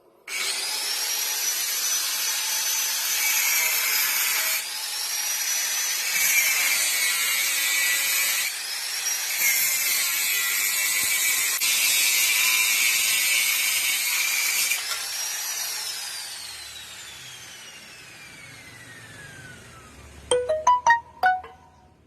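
Angle grinder grinding metal, likely the scooter's exhaust pipe, in several passes, its pitch dipping under load, then spinning down with a long falling whine. A few sharp metallic clinks follow near the end.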